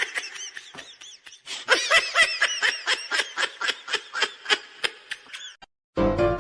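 A person laughing in a long run of quick, high-pitched bursts, about three or four a second, that stops near the end; piano music starts right after.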